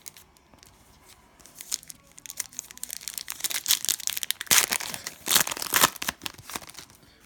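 Cellophane wrapper of a trading-card pack being crinkled and torn open, a few faint clicks at first, then a dense crackling that is loudest about five seconds in and eases off near the end.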